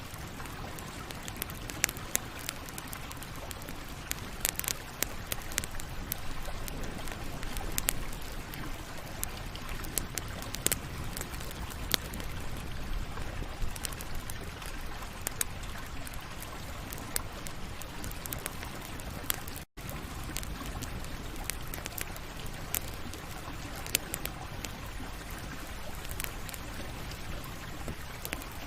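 Campfire crackling: a steady hiss of burning wood with frequent sharp, irregular pops and snaps. The sound cuts out for an instant about two-thirds of the way through.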